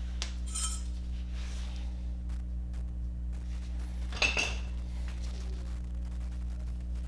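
Metal tools and brake parts clinking during a brake pad job: a few light clinks with a short ring near the start, then one sharper metallic clank a little past halfway. A steady low hum sits beneath.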